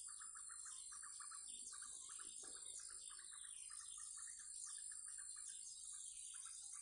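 Small birds chirping and calling in quick repeated phrases, over a steady high-pitched insect drone.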